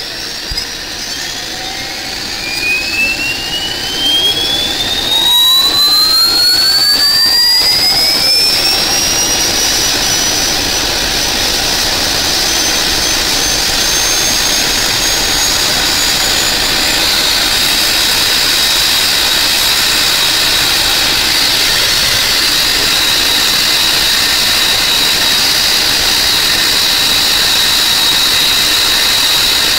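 Helicopter turbine engine spooling up: a high whine rises in pitch over the first several seconds and gets louder, then settles into a steady high turbine whine.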